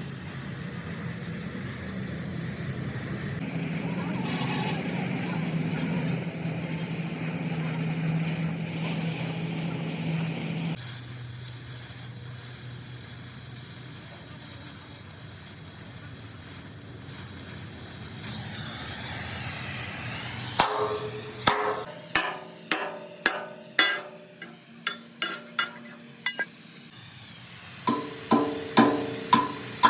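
A steady hissing machine noise, then, about two-thirds through, a hammer striking steel: irregular blows, each with a short metallic ring, turning into steady hammering about two blows a second near the end.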